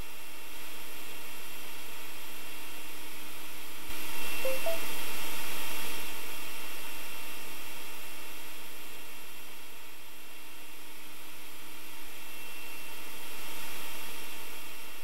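Robot vacuum cleaner running: a steady motor whir with a faint hum, swelling louder about four seconds in and easing off after.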